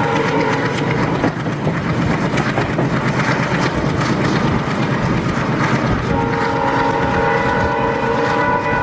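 Passenger train running at speed behind a WDM3D ALCO diesel locomotive: steady rumble and clatter of coach wheels on the rails. A steady multi-tone sound from the locomotive is heard at the very start, stops after about a second, and comes back about six seconds in.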